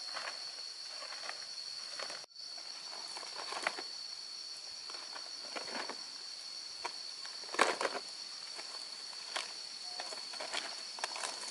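A steady high-pitched insect drone, with scattered rustles, clicks and light footsteps over it. Everything cuts out for a moment about two seconds in.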